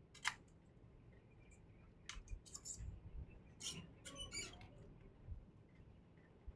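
Quiet small clicks and scrapes of hand tools and parts on a circuit board during capacitor replacement: one sharp click near the start, then two short flurries of crisp clicking about two and four seconds in.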